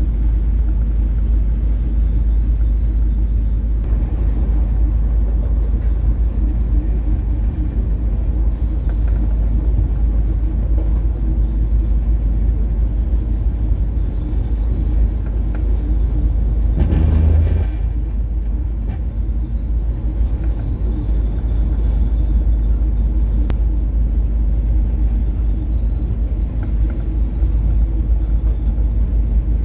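Steady low rumble of a coastal cargo ship's engine and hull underway in rough seas, with a short louder rush and thump a little past halfway through.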